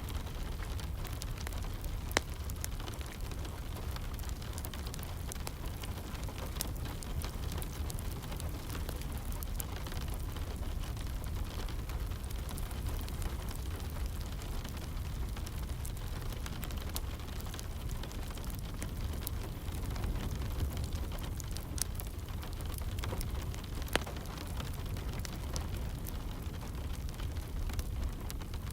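A wood fire crackling in a fireplace, with scattered sharp pops, over a steady low rumble and the hiss of rain falling.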